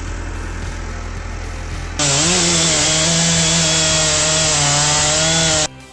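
A machine hum, then, about two seconds in, a saw engine cutting wood starts abruptly. It runs at high, slightly wavering revs and cuts off suddenly near the end.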